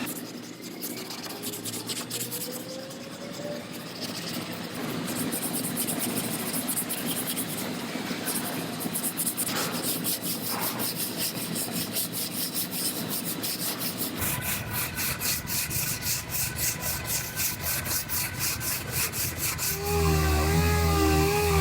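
Hand sanding body filler and glaze on a pickup's steel bedside: a sanding block rubbing back and forth in quick, even strokes. A wavering hum comes in near the end.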